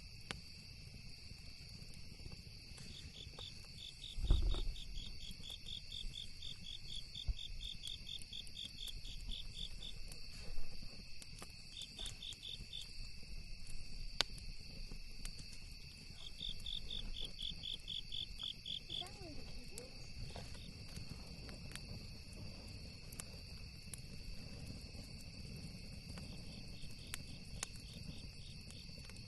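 Night insect chorus: a steady high buzzing of insects with bursts of a cricket's pulsed chirping, about four chirps a second. Scattered sharp crackles from the campfire and one low thump about four seconds in.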